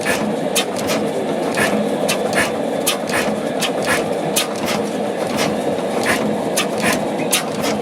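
Allen stationary oil engine running, a steady drone with sharp clacks repeating about twice a second.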